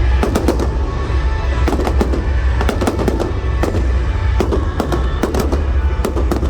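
Fireworks going off: a dense, irregular run of sharp bangs and crackling bursts, with music playing underneath.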